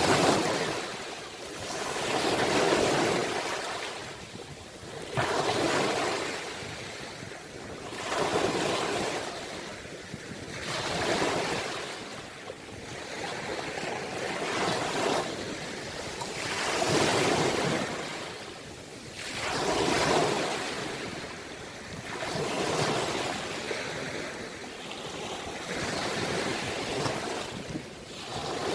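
Ocean waves breaking and washing up the shore, each swell rising and falling away in a steady rhythm about every three seconds.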